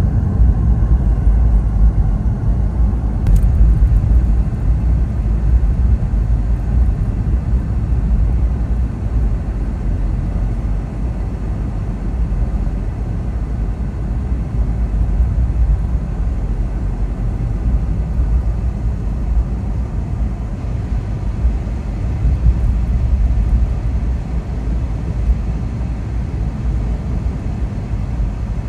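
Steady low rumble of a car driving: engine and road noise. A short click about three seconds in.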